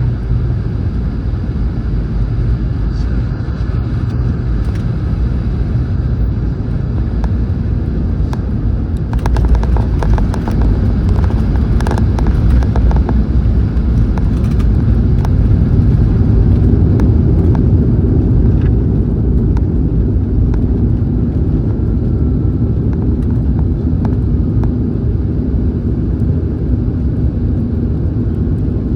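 Cabin noise of a Boeing 717 landing: a steady rumble, with a few seconds of rattles and knocks about nine seconds in as the wheels touch down. After that the rollout rumble grows louder, then eases off toward the end as the jet slows.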